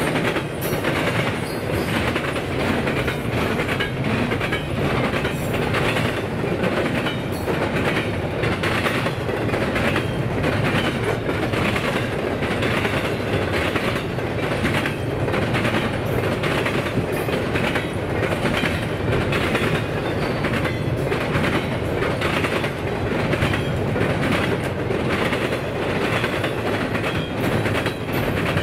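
Railway cars rolling past close by, a steady rumble with their wheels clicking over the rail joints.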